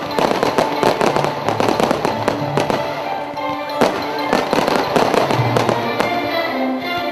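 Fireworks display: a dense, fast run of sharp cracks and bangs from bursting shells, over loud music.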